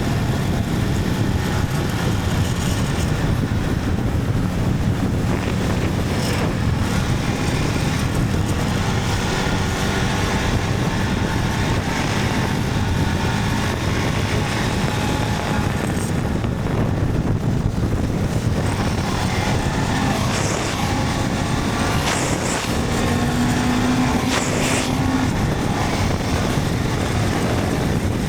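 Motorcycle being ridden: the engine runs at a steady pace under a continuous wash of wind and road noise.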